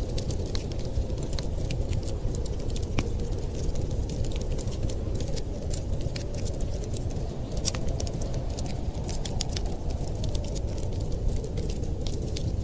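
Wood fire crackling, with many quick sharp pops and snaps scattered irregularly over a steady low rumble of winter wind.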